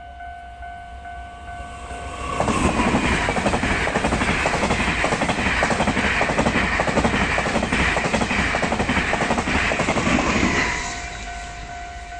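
A Taiwan Railways train passing at high speed. It comes in suddenly about two seconds in, runs loud with an even clatter of wheels over rail joints, and dies away near the end. Steady tones at several pitches are heard before and after it.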